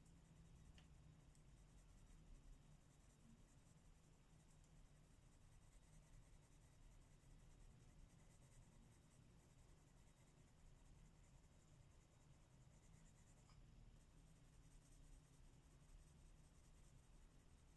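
Faint, steady scratching of pencil strokes on paper over a low background hum.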